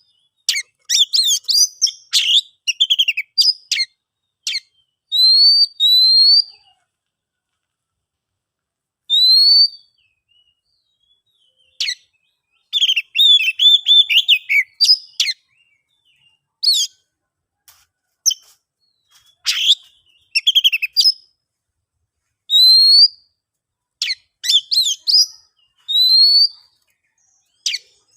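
Oriental magpie-robin singing loudly in separate phrases: quick runs of varied chirps and trills alternate with single clear whistles that slide upward, and there is silence between phrases.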